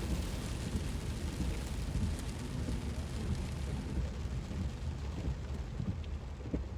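Heavy monsoon rain falling steadily on a moving car, mixed with the low rumble of tyres and road.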